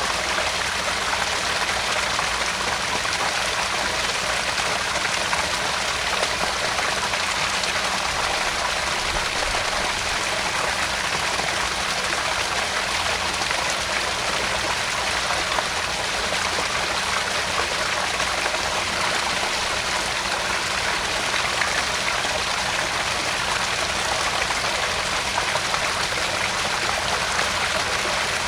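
Small garden pond waterfall: water splashing and trickling steadily into the pond, an even, unbroken rush.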